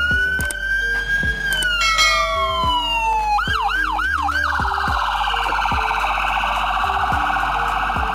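Electronic ambulance siren: one slow wail that rises and then glides down, then about four quick yelps near the middle, then a fast warbling trill.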